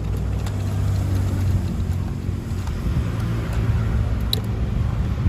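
A steady low mechanical rumble with a hum, cutting off suddenly at the end.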